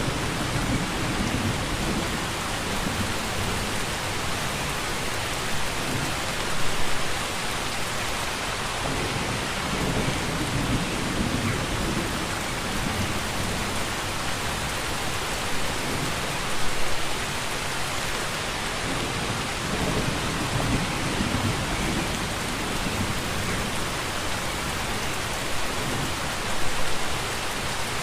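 Steady heavy rain pouring as a dense, even hiss. Low rumbles swell up every several seconds, loudest about every ten seconds, near a quarter, a half and the end of the stretch.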